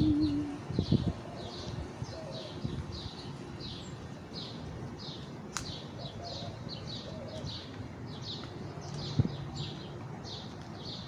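A bird chirping over and over, short high chirps about twice a second, over faint outdoor background noise. A held sung note fades out about half a second in, and there is a single sharp click around the middle.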